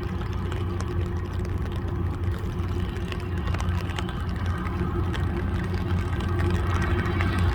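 Diesel engines of a river towboat pushing a barge, running with a steady low drone that slowly gets louder.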